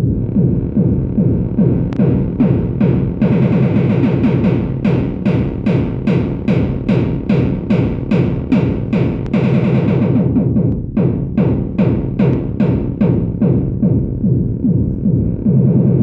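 Dreadbox Dysmetria analog groove synth playing a sequenced percussive pattern: a low, downward-sweeping drum tone hits about three times a second, with bright noisy strikes over it that fade in and out across the pattern.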